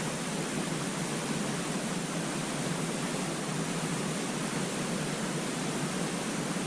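Steady, even rushing hiss with no pitch or rhythm, unchanging throughout.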